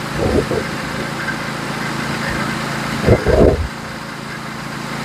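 Norwood HD36v2 portable bandsaw mill's engine running steadily while the band blade cuts through a log. Two short low thumps break in, a small one just after the start and a louder one about three seconds in.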